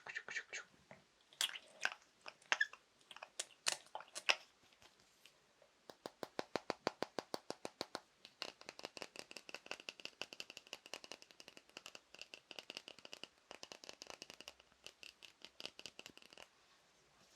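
Fast ASMR tapping on small objects: several scattered taps, then quick even runs of taps several a second. About halfway in, the tapped object rings with a steady tone under each tap.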